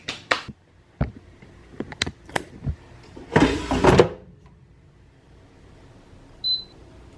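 Air fryer basket handled and pushed shut: a few clicks and knocks, then a short sliding clunk as the drawer goes in, followed a few seconds later by a brief high electronic beep from the control panel.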